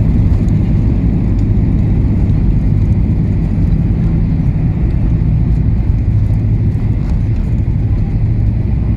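Airliner cabin noise during landing: a loud, steady low rumble of engines and airframe.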